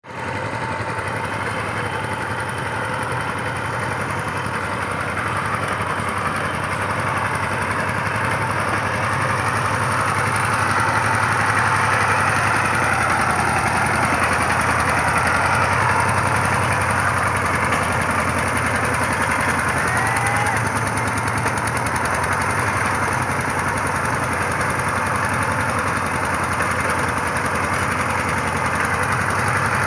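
Power tiller's diesel engine running steadily, getting a little louder about ten seconds in.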